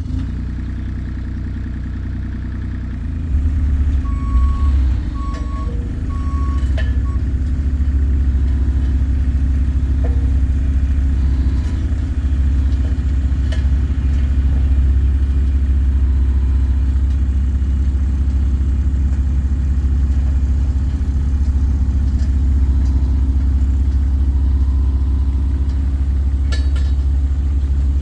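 JCB CT260-120 tandem road roller's diesel engine running steadily and getting louder as the machine works. Its reversing alarm beeps about four times some four seconds in.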